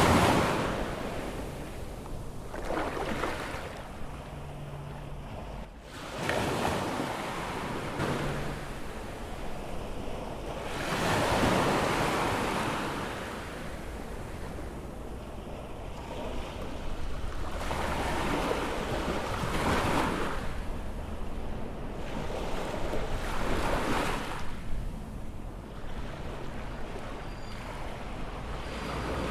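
Ocean surf breaking on a sandy beach, with waves washing in one after another every few seconds, each one swelling up and then falling back.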